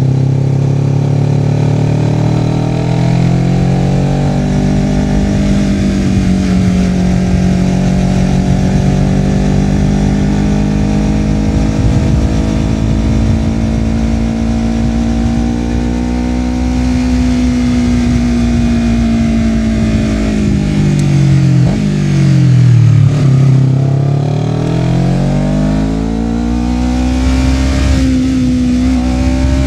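Honda CBR250RR's parallel-twin engine running through a Yoshimura R-11 slip-on exhaust while riding. The pitch climbs and holds fairly steady, then drops sharply about twenty seconds in as the bike slows, and rises again as it pulls away.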